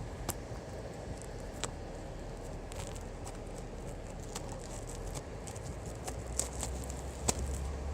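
Scattered light clicks and taps of a Blu-ray box set's packaging being handled, irregular and a little more frequent near the end, over a steady low hum.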